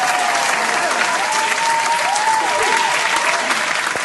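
River water rushing steadily, a loud even hiss, with a few faint warbling pitched calls over it.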